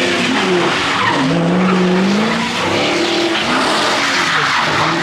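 Car engines revving hard with tyres skidding and squealing, loud and continuous, as cars do burnouts and donuts on wet pavement; the engine pitch rises and falls repeatedly.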